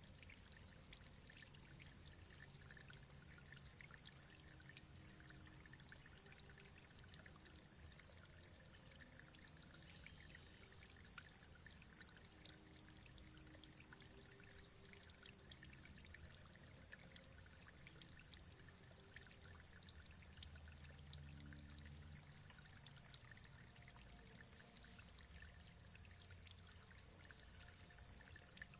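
Faint, steady running water, a constant trickling pour with many small droplet splashes. A thin, steady high whine runs underneath.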